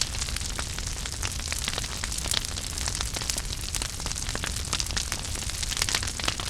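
Wood fire burning in a fireplace: many quick, sharp crackles and pops over a steady hiss and a low rumble.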